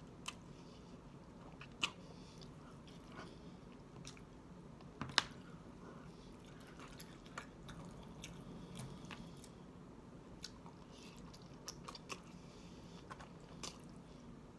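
Soft, close-up chewing and mouth smacking of someone eating shrimp alfredo pasta, with a few sharp clicks scattered through it, the loudest about five seconds in.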